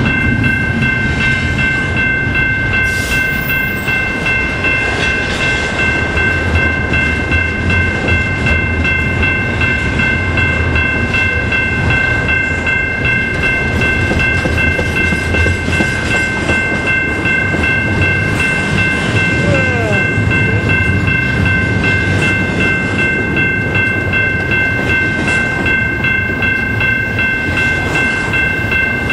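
Double-stack container train's well cars rolling past close by: a steady rumble and rattle of wheels on rail, with a steady high-pitched whine over it.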